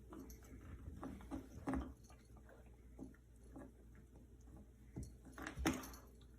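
Puppy chewing and mouthing frozen banana pieces: scattered short crunches and clicks, the loudest near the end.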